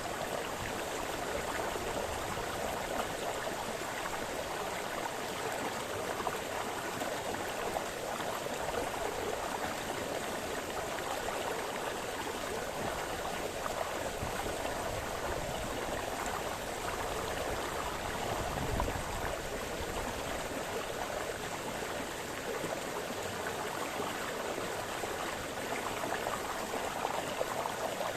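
Small brook splashing, a steady rush of running water with no break.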